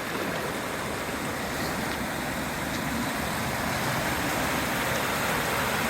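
Swollen, flooded river rushing steadily: a continuous, even roar of high water.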